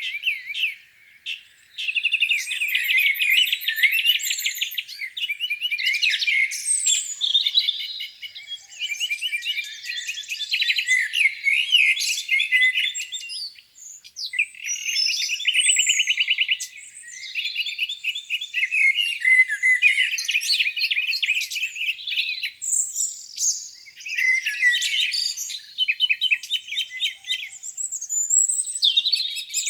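Several songbirds singing at once in a dense spring dawn chorus: overlapping rapid trills, chirps and short whistled phrases, with brief lulls about a second in and about halfway through.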